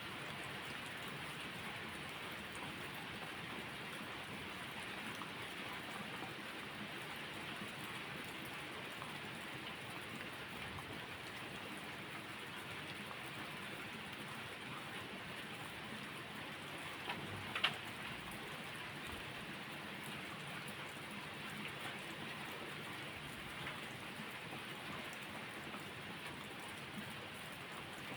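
Steady rain falling, an even hiss with no let-up. Two sharp clicks close together about two-thirds of the way through, the second the louder.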